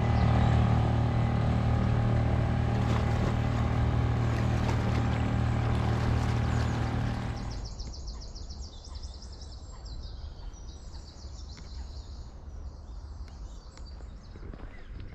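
A motor engine running at a steady, unchanging pitch, loud for about seven and a half seconds, then cut off abruptly. Birds chirping follow.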